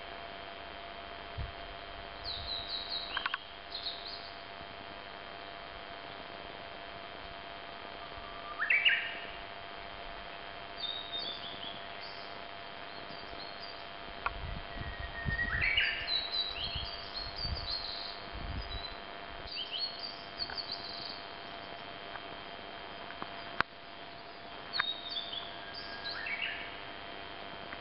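Small birds chirping at intervals: short high calls and quick sweeping notes, some in rapid runs, over a faint steady hum. A few low rumbles come in the middle.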